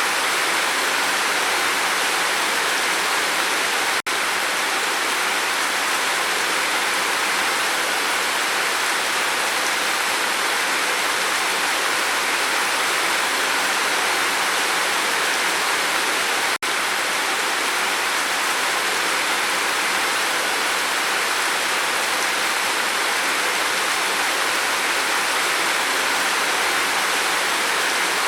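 Steady rain falling on a roof, an even hiss of rain noise. It cuts out for an instant twice, about four seconds in and again about sixteen seconds in.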